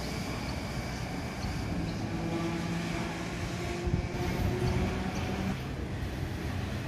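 A vintage 'Red Rattler' electric train rumbles as it runs away along the track, with a steady hum coming in about two seconds in. After a sharp click about four seconds in, the rumble of a container freight train passing takes over.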